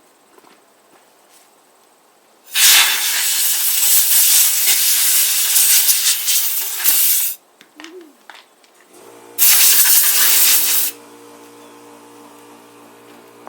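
Two blasts of compressed air from an air blowgun, a long one of about five seconds and a shorter one of about a second and a half, cleaning out the chainsaw's clogged air filter. A steady electric hum starts up during the second blast and keeps going.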